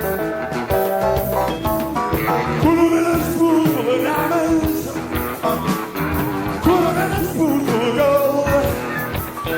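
Live rock band playing a slow blues, with electric guitar, bass and drums and a lead vocal whose notes bend and slide.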